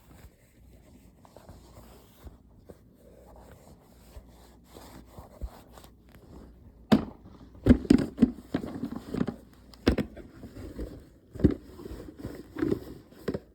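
Handling noise from a phone being gripped and moved by hand: faint rubbing and scraping, then a run of irregular sharp knocks and bumps from about seven seconds in.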